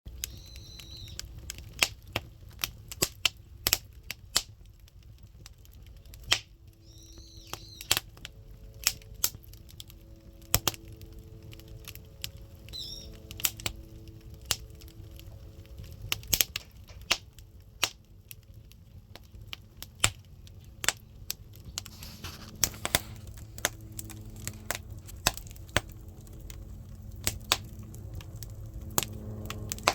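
Firewood burning in a traditional Korean clay hearth (buttumak), crackling with irregular sharp pops over a low rumble of the fire. Brief high chirps come near the start, about 7 seconds in and about 13 seconds in.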